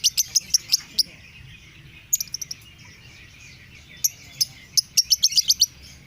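Lovebird chirping: runs of sharp, high chirps, a few a second, broken by short pauses.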